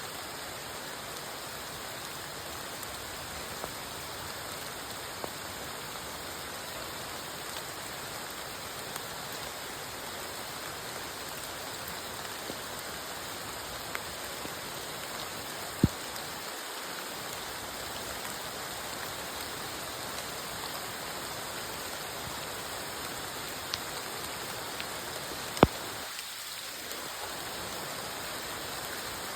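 Steady rain falling, an even hiss with scattered sharp drop ticks; two louder ticks come about halfway through and near the end.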